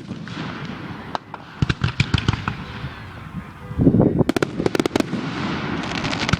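Fireworks display: aerial shells bursting with booms and rapid crackling pops, loudest in a cluster of bangs about four seconds in.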